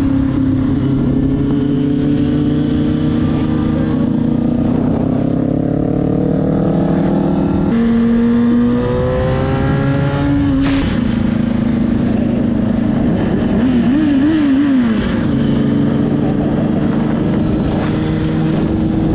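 Motorcycle engine under way. It climbs in revs, drops with an upshift about eight seconds in and climbs again. It then holds steady, with a few quick rises and falls in revs around fourteen seconds in.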